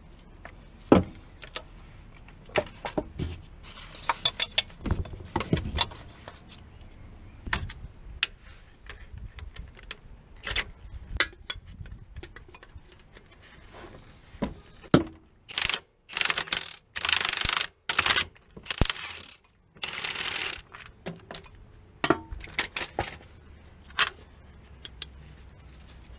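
Hand tools working on a car: scattered metal clicks, clinks and knocks, then a run of short, loud noise bursts about two-thirds of the way through, each starting and stopping abruptly.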